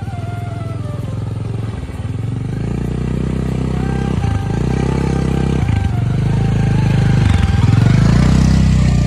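Motorcycle engine running under throttle, growing louder toward the end, with the engine note breaking off briefly about three times as the throttle is eased or a gear is changed. Faint background music plays alongside.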